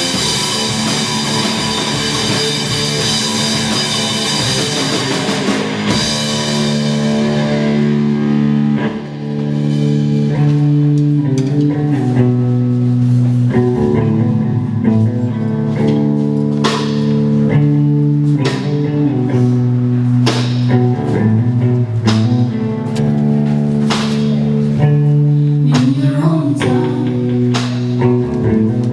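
Live rock band playing, with guitars and drums. A dense crash of cymbals fades out about six seconds in, leaving a heavy guitar and bass riff punctuated by drum hits.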